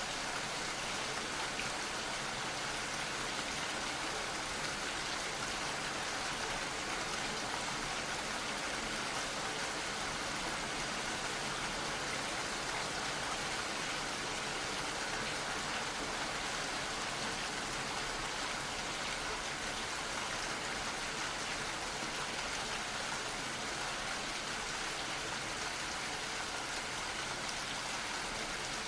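Gentle, steady rain falling, a soft even hiss of drops with no change.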